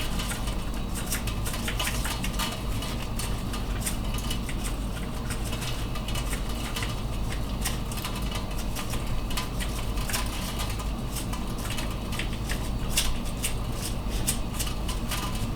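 Seasoning shaker being shaken over food, with the dry granules rattling out as a long run of light, irregular ticks over a steady low hum.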